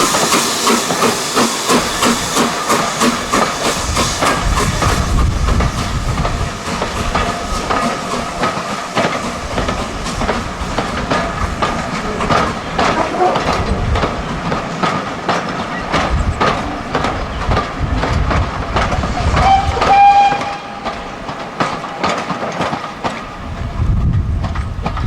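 Steam locomotive working a train: a loud hiss of steam at first, then a steady run of regular beats and wheel clicks over rail joints, with a brief high tone about twenty seconds in.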